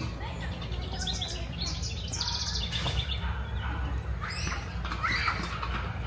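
Songbirds singing: a fast series of high repeated notes from about one to three seconds in, then short phrases sweeping up and down in pitch near the end, over a steady low rumble.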